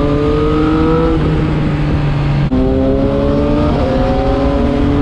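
Triumph Street Triple 675 Rx's three-cylinder engine pulling under load, its pitch climbing steadily. There is a quick gear change about halfway through, with a brief cut in sound and a drop in pitch, and another step down about a second later.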